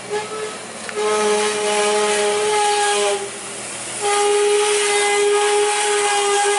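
A large vehicle's air horn blowing one steady note: a short toot, then a long blast about a second in and another about four seconds in.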